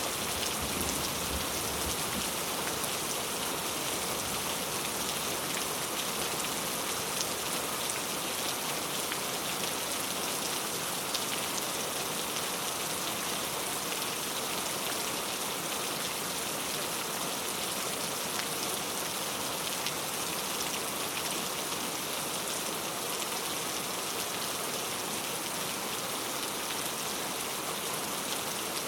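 Heavy rain falling steadily: a dense, even hiss of countless drops, with no change in strength.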